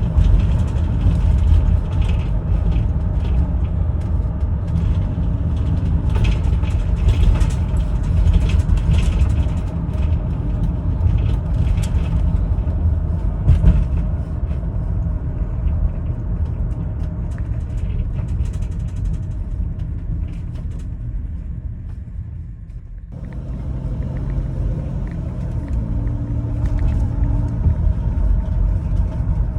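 Chevrolet Venture minivan with its 3400 V6 under way: a steady low rumble of engine and road noise with scattered rattles and bumps. The sound cuts off abruptly about three-quarters of the way through, then the rumble resumes more evenly.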